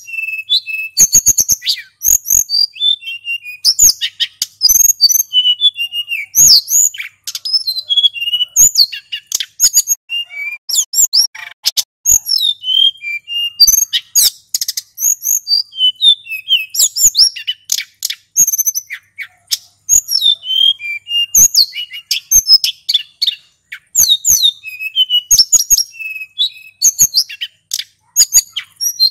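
Male hill blue flycatcher (sulingan gunung) singing continuously in a rapid run of high whistled notes that glide up and down. Sharp clicks are scattered among the notes.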